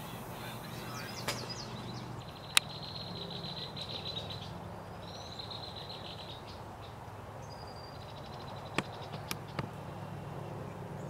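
Small bird singing repeated dry, rapid trills, over steady outdoor background noise. A few sharp clicks cut in, one much louder about two and a half seconds in and three smaller ones near the end.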